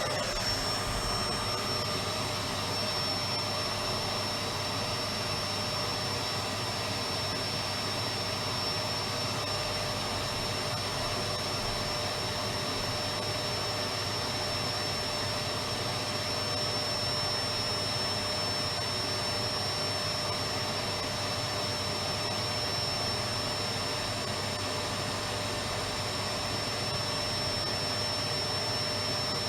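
Electric vacuum cleaner motor running steadily: an even rushing noise with a constant high whine.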